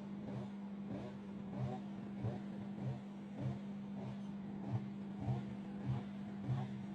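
Microwave oven running with a steady electrical hum and a regular low pulsing, roughly twice a second, that grows a little stronger near the end.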